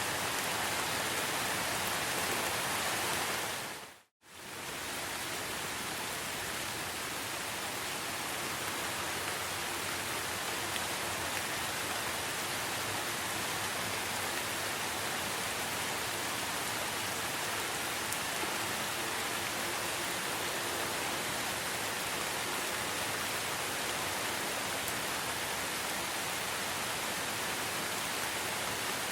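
Steady rain falling in a forest, an even hiss of many drops. About four seconds in the sound dips briefly to silence and comes straight back.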